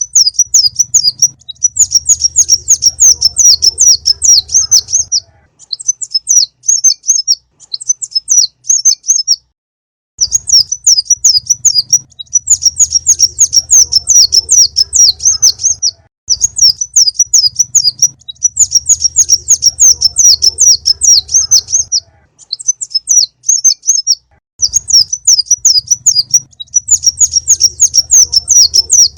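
Konin (a small sunbird, 'kolibri') singing on a bird-luring master track: fast, high-pitched chirping trills in bursts of a few seconds with short pauses between them, the pattern repeating over and over. A faint low hum runs under each burst.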